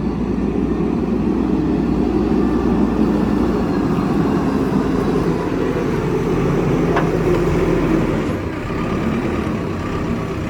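Heavy diesel engine running hard under load, steady, easing off slightly about eight seconds in.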